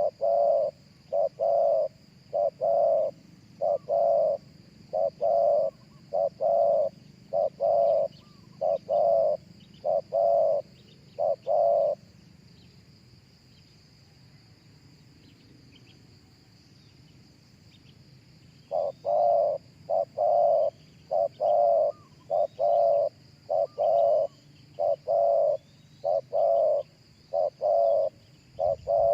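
Spotted dove cooing: a long series of low, evenly spaced coo notes. The series breaks off for about six seconds partway through, then starts again.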